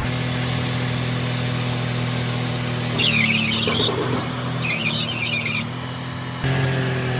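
Farm machine's diesel engine running at a steady speed, with two high-pitched squeals about three and five seconds in. The engine note gets louder suddenly near the end.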